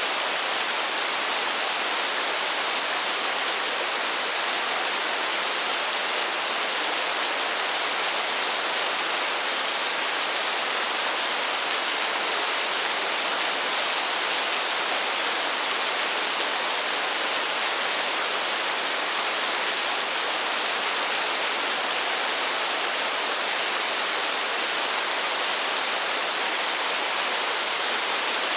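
Steady rainfall, a dense, even hiss with no single drops standing out.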